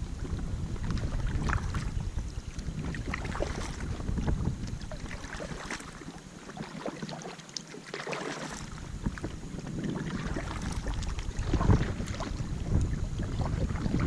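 Strong gusting wind buffeting the microphone, easing briefly midway, with small choppy splashes of water against an inflatable kayak.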